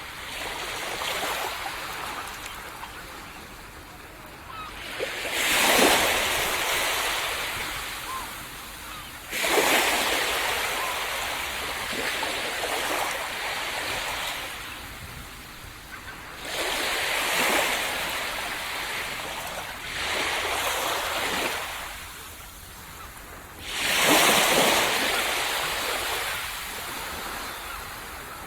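Small sea waves breaking on a sandy beach and washing back, about six surges, each rising quickly and then fading out.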